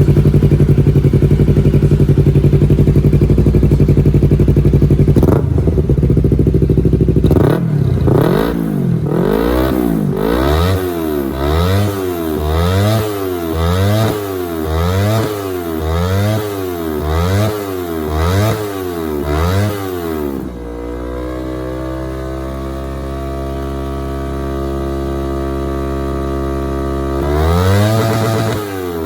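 Yamaha R25 parallel-twin engine through a stainless straight-pipe full exhaust with an Akrapovic Hex muffler. It idles loudly at first, then is revved up and down over and over, about once a second. It settles back to a steady idle about two-thirds of the way through and starts revving again near the end.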